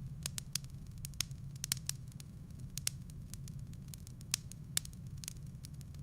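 Wood fire burning in a fireplace, crackling and popping: irregular sharp snaps, several a second at times, over a steady low rumble of the flames.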